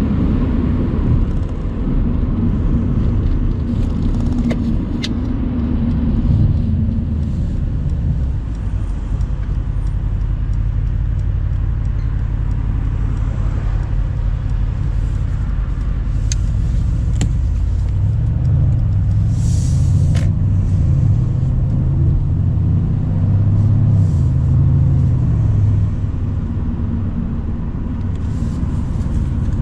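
Mercedes-AMG C63 cabriolet's twin-turbo V8 running under way, heard from the open-top car along with tyre and wind noise. The engine note drops about six seconds in and swells again in the second half.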